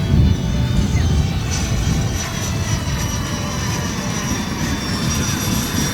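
Electric ducted fan of a radio-controlled Kawasaki T-4 model jet in flight: a steady high whine, with a faint pitch sliding down about two seconds in as it passes, over a steady low rumble.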